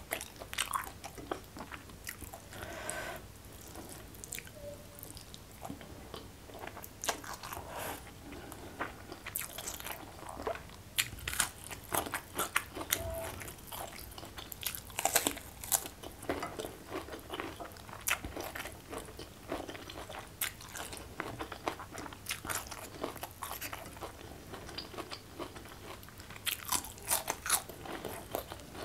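Close-miked eating sounds: chewing and crunching of a meal eaten by hand, with many irregular sharp clicks and wet smacks.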